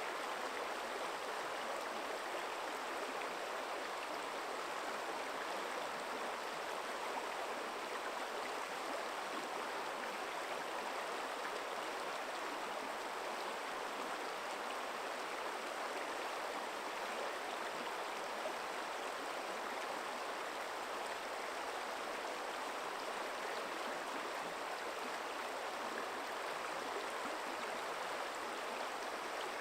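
Forest stream flowing over stones: a steady rush of running water with no change.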